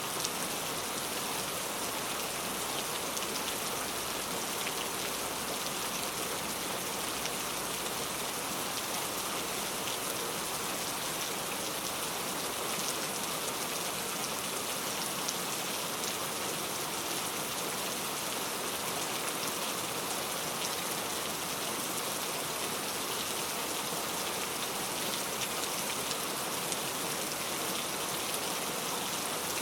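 Steady rain falling: an even hiss with many small drop impacts scattered through it.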